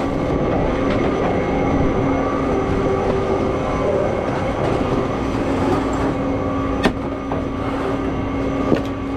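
Steady mechanical rumble with a low hum, broken by two sharp clicks, one about seven seconds in and another near the end.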